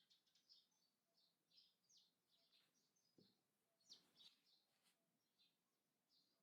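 Faint songbirds chirping: a steady run of short, quick chirps, with the loudest near the middle. A soft low knock is heard about three seconds in.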